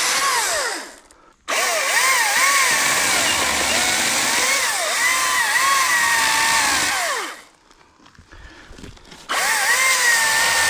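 Battery-powered ECHO DCS-2500T top-handle chainsaw cut in bursts: its electric motor whines, dropping to silence when the trigger is released and starting again sharply. It stops about a second in, restarts, runs for about six seconds with the pitch dipping and recovering as the chain bites, stops, and starts again near the end.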